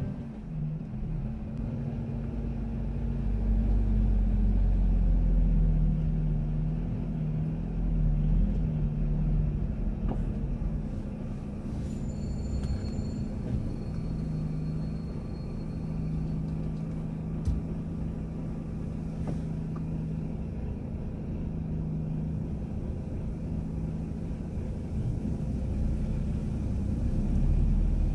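Truck engine and road rumble heard from inside the cab while driving: a steady low drone with a deep engine hum that swells and eases a little.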